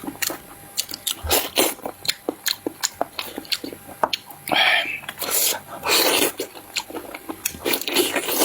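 A person chewing and smacking food close to the microphone: a steady run of short, wet mouth clicks, with two longer, noisier sounds about halfway through.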